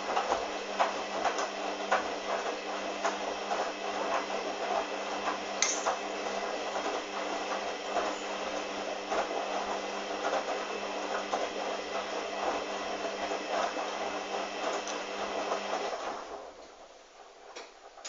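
Hoover washing machine with its motor running and the drum turning, a steady hum with irregular clicks and knocks. About 16 seconds in the motor cuts out and the drum winds down to a stop.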